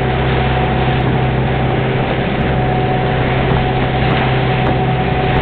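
Boat engine running steadily, a constant low hum with a fixed higher whine over it.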